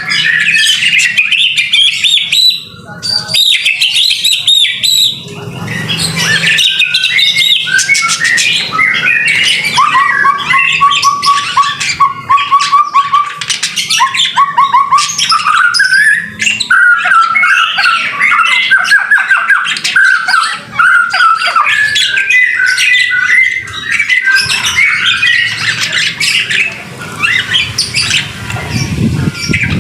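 White-rumped shama (murai batu) singing continuously and loudly, a varied stream of whistles and chattering phrases. In the middle it breaks into runs of quickly repeated lower notes.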